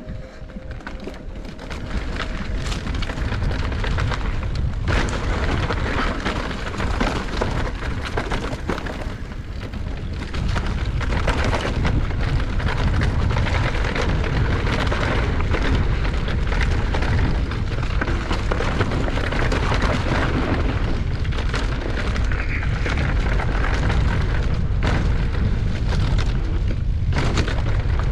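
Wind buffeting the camera microphone, with the rumble and rattle of a mountain bike riding a trail. It gets louder about ten seconds in.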